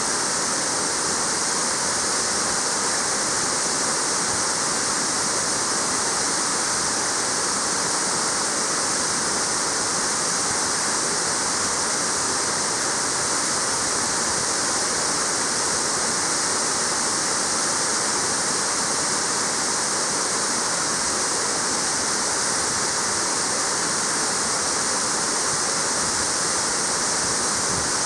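Waterfall: water falling and splashing in a steady, unbroken rush, with a bright hiss high up.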